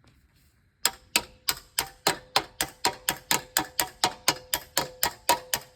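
Rapid metal-on-metal hammering: a metal tool used in place of a hammer, striking a steel part about four times a second, each blow ringing. It starts about a second in and keeps an even rhythm.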